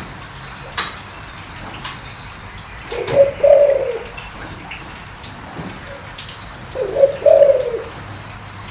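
Spotted dove cooing in a low voice: two coo phrases about four seconds apart, each a short run of notes lasting about a second.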